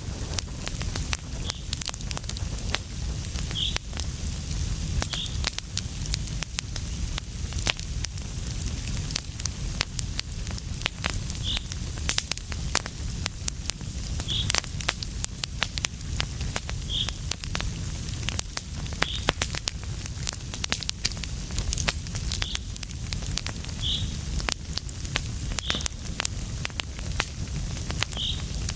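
Wood fire burning in a fireplace, crackling and popping irregularly over a steady low rumble of the flames. Brief high-pitched squeaks come every second or two throughout.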